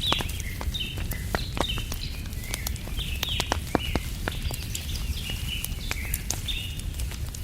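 Wood fire crackling with many sharp pops, over a steady run of short, repeated bird chirps and a low steady rumble.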